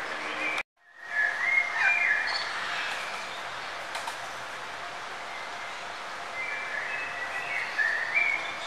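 Birds chirping in short whistled notes over a steady background hiss. The sound cuts out completely for a moment about half a second in, then the chirping returns at its loudest.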